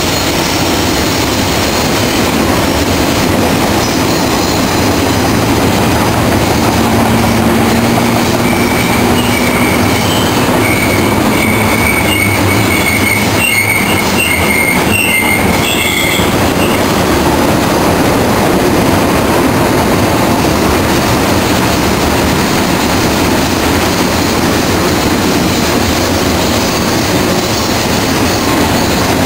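Double-stack intermodal freight train rolling past, a steady loud rumble of wheels on rail. Short high-pitched wheel squeals come and go from about nine seconds in until about halfway through.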